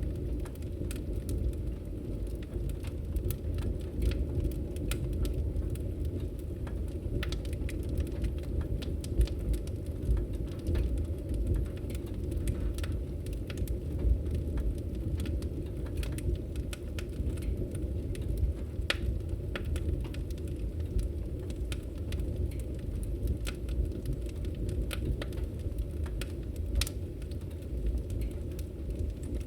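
Wood fire crackling in a fireplace: a steady low rush from the burning logs, with frequent sharp pops and snaps scattered irregularly throughout.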